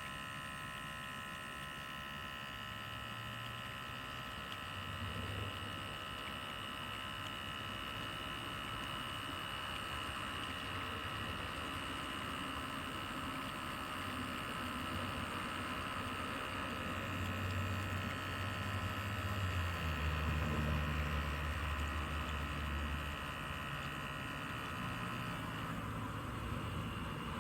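Small electric pump of an Outin Nano portable espresso machine running with a steady whine, with a deeper rumble swelling in about two-thirds of the way through.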